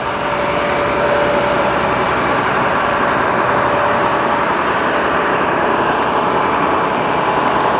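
Steady rushing noise of a running bus, with a faint steady hum over the first few seconds.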